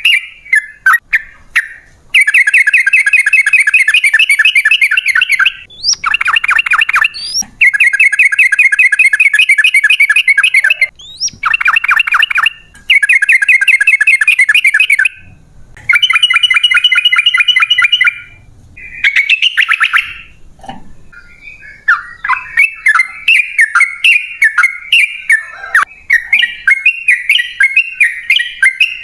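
Yellow-vented bulbul (trucukan) singing long rapid trills, each a fast run of repeated notes lasting two to three seconds with short pauses between them. In the last third the song breaks into choppier, separate chattering notes.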